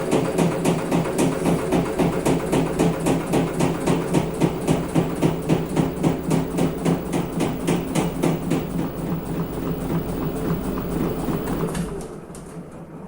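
Washing machine running, a steady motor hum with a rhythmic knocking about four times a second; near the end the machine stops and the sound dies away.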